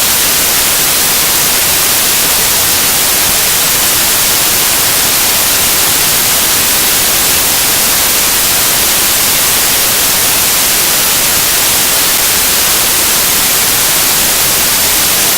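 Loud, steady static hiss like white noise, even across the whole range and with no speech or other sound in it: noise taking over the audio track.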